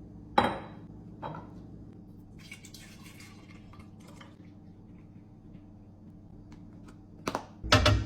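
Food containers and jars being set down and shifted on fridge shelves. A sharp clack comes about half a second in and a lighter knock a second later, with soft rustling and small clinks in the middle and a quick run of knocks near the end, over a faint low steady hum.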